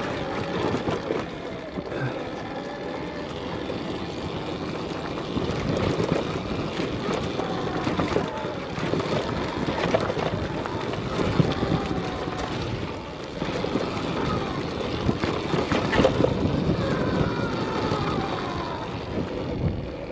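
Arctic Leopard XE Pro electric dirt bike being ridden over rough trail: the electric motor's whine rises and falls in pitch with the throttle, over wind on the microphone and scattered knocks and rattles from the bike on the dirt and rocks.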